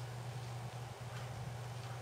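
A steady low hum under a faint background hiss, with a couple of faint soft rustles about a second in and near the end.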